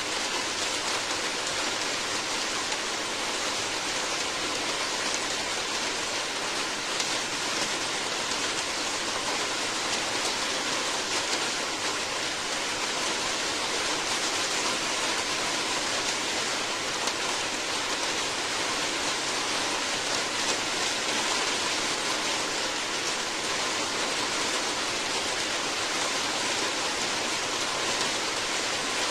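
Steady heavy rain, an even hiss of drops falling on surfaces with no breaks or distinct events.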